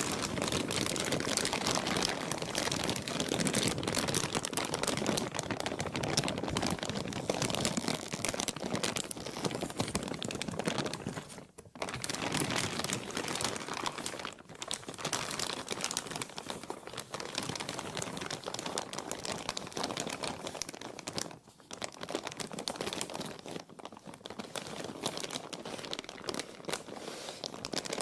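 Plastic being crumpled and crinkled by hand in a steady stream of dense crackling, pausing briefly twice.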